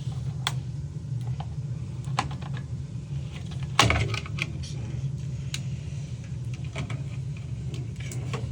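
Small metallic clicks and clinks from tools and parts being handled, with one louder clatter about four seconds in, over a steady low hum.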